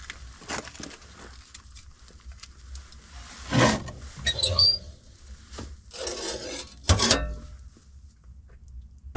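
Objects being handled: a few knocks and scrapes, with a brief metallic clink in the middle.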